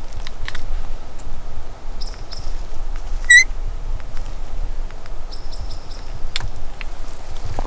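Birds chirping in two short, rapid trills, with one brief, sharp high-pitched call about a third of the way in, the loudest sound. A low rumble runs underneath.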